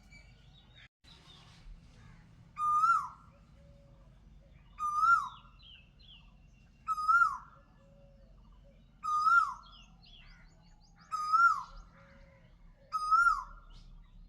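A bird giving the same short call six times, about every two seconds, each call rising and then dropping in pitch, with fainter chirps from other birds between the calls.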